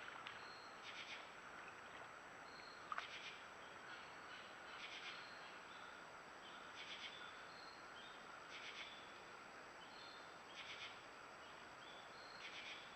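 Quiet woodland ambience: faint rasping animal calls repeat about every two seconds, with short high chirps between them and a single soft click about three seconds in.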